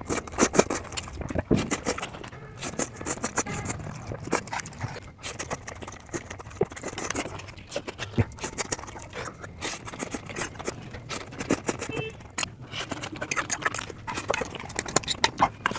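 Chow mein noodle eating sped up to double speed: fast, irregular chewing and mouth clicks.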